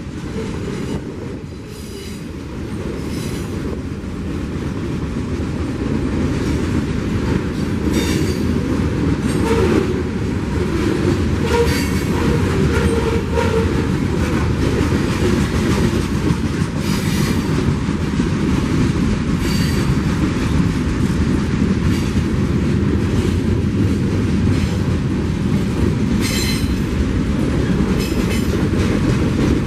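Train passing close by: a steady rumble of rail cars with wheels clicking over the rail joints, growing louder over the first several seconds and then holding steady.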